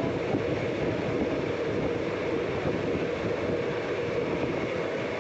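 Saryu Yamuna Express passenger train running on the track with a steady, continuous running noise of wheels and coaches.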